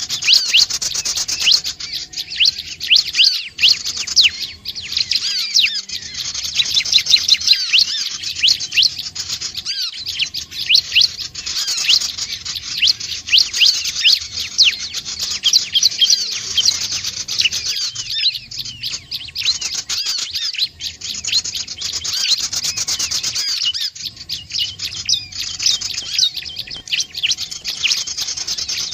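Prinia song: a rapid, continuous run of high, sweeping chirps, broken by short pauses every few seconds.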